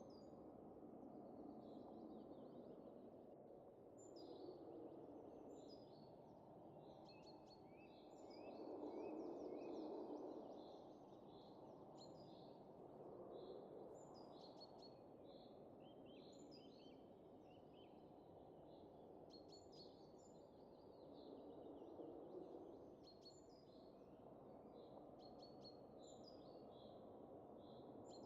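Soft winter wind rising and falling in slow gusts, loudest about nine seconds in, with small birds chirping again and again over it.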